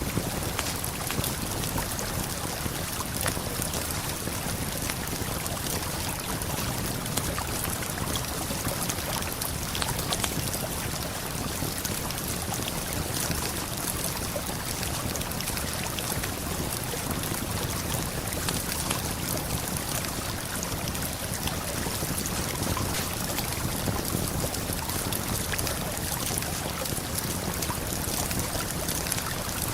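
Steady rush of a river and waterfall, with many small crackles from a campfire.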